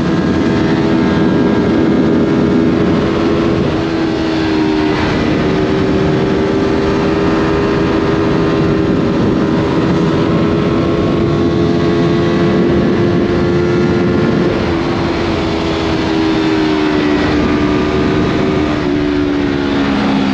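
Yamaha MT-03 motorcycle with a Scorpion full-system exhaust running at steady revs while riding, with road and wind noise; the engine note drops in a couple of steps near the end.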